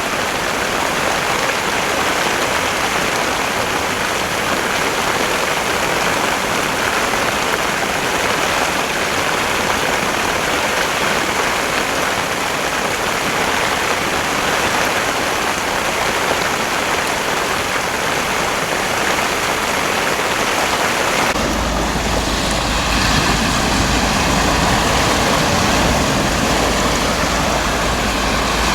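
Heavy rain pouring steadily in a dense, even hiss. About three-quarters of the way through, the sound changes abruptly to a deeper rush, with wind rumbling on the microphone and waves.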